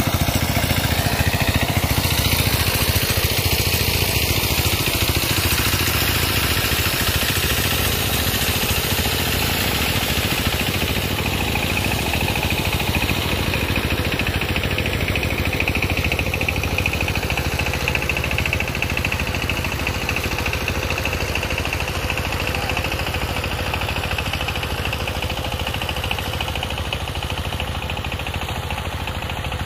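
A motor engine running steadily and slowly growing fainter.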